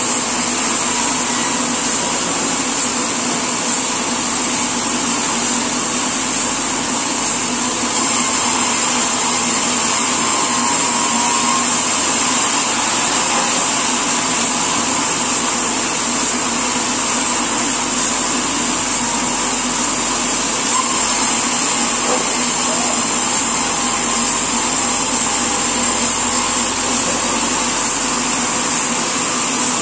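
Sawmill machinery running steadily: a loud, even mechanical noise with a constant high whine.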